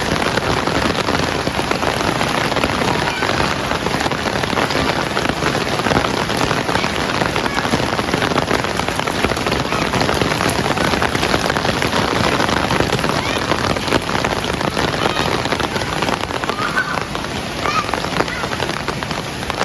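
Heavy rain pouring steadily on surfaces, a dense, unbroken hiss.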